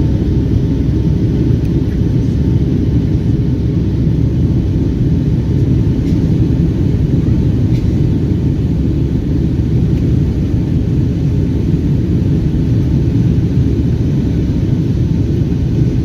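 Boeing 757 jet engines running at high power during takeoff: a steady, loud low rumble with no breaks.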